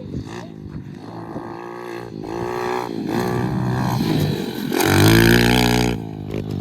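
Pit bike engine revving up and down through the gears as the bike is ridden, its pitch rising and dropping several times. It is loudest in a hard burst of throttle about five seconds in.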